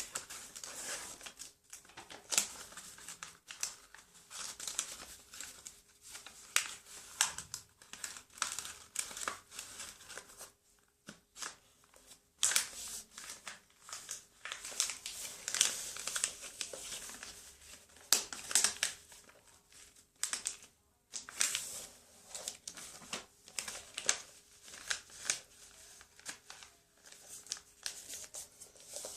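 A sheet of paper rustling and crinkling in irregular bursts as it is folded and creased into a paper airplane, with brief pauses in the handling.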